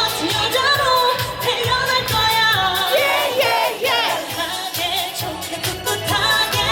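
Live K-pop performance: singing over a pop backing track with a steady beat.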